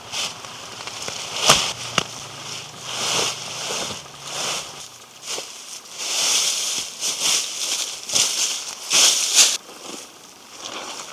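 Dry autumn leaves and twigs crunching and rustling in a run of short irregular bursts, with a couple of sharp snaps about one and a half to two seconds in.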